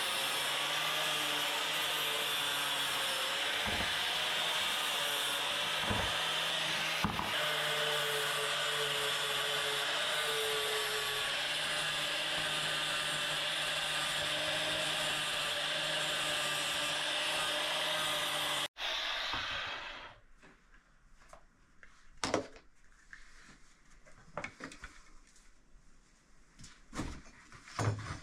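Angle grinder with a flap disc running steadily, grinding slag and weld spatter off welded steel horseshoes. It stops abruptly about 19 seconds in, leaving a few light knocks and clicks.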